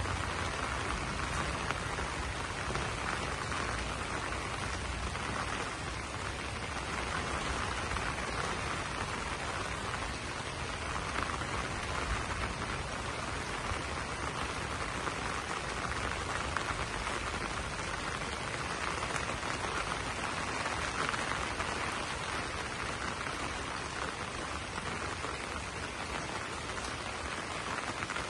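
Steady rain falling and pattering on wet banana leaves, an even hiss with no let-up.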